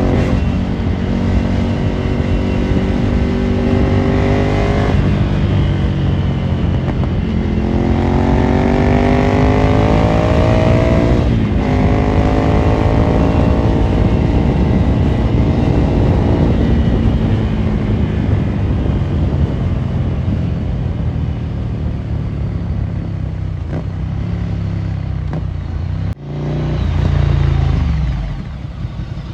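Ducati Monster 797's air-cooled L-twin through a Termignoni exhaust, accelerating through three gears: the revs climb and then drop sharply at each upshift before settling into a steadier run. Near the end, after a sudden break, the engine gives one short rev.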